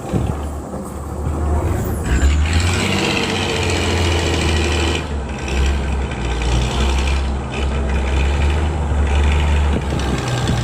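Truck engine running with a steady low hum, getting louder about two seconds in as a higher rushing sound joins it, which dips briefly twice.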